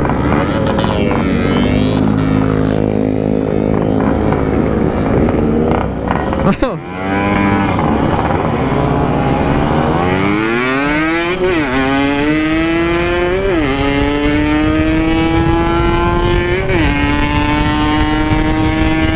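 Yamaha RX-King 135cc two-stroke single-cylinder engine at full throttle through an aftermarket expansion-chamber exhaust. The engine briefly cuts out about six to seven seconds in. After that the revs climb steadily, dipping briefly at each of three gear changes.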